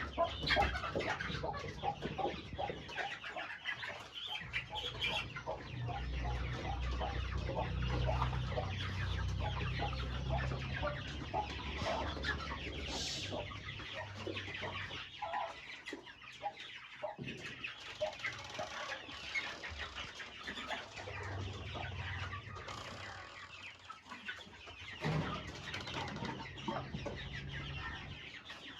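A flock of young chickens peeping and clucking continuously, many birds calling over one another, with a low rumble underneath.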